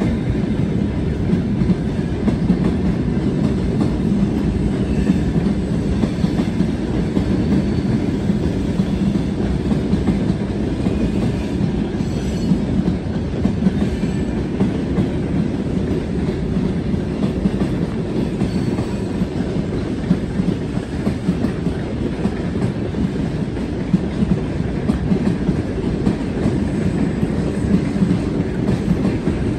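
Coaches of a passenger train pulling out of the station, rolling past with a steady running noise and the clack of wheels over rail joints.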